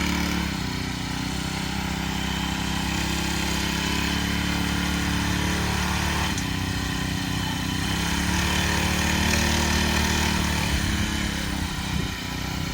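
Mini bike's small gasoline engine running, its speed rising and falling a little as the rider works the throttle.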